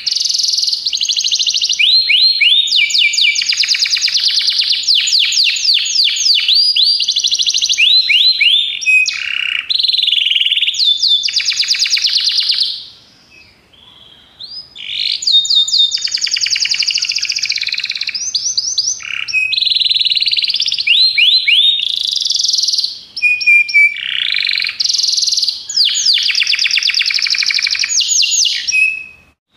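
Belgian canary (domestic canary) singing long runs of rapid, high trills and rolls. About halfway through it pauses for a couple of seconds, then resumes.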